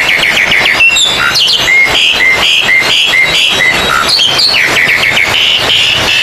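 Oriental magpie-robins (kacer) singing over one another, as at a songbird contest: rapid runs of repeated chirps and short whistled phrases, loud and unbroken.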